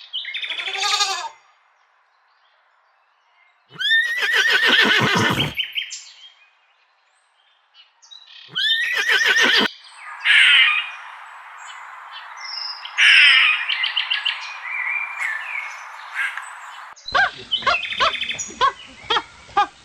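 A string of different animal calls: a loud drawn-out call or two, then bird chirps over a steady hiss, then a fast run of short calls near the end.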